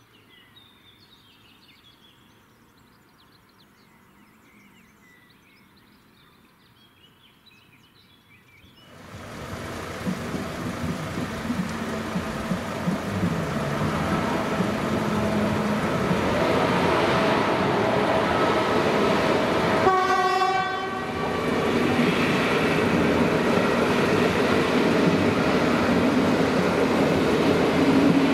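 Near quiet outdoors with faint bird chirps. About nine seconds in, the noise of an approaching passenger train rises and grows loud. A short horn blast sounds about twenty seconds in, then the wheels roll on over the crossing.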